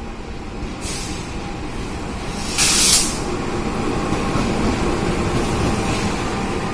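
Train at a station: a steady low rumble with faint steady tones, broken by short hisses, the loudest about half a second long a little under three seconds in.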